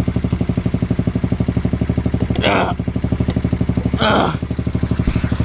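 Pit bike's single-cylinder engine idling steadily with a fast, even pulse, freshly started after a long struggle to get it running. A person makes two short vocal sounds over it, one near the middle and one near the end.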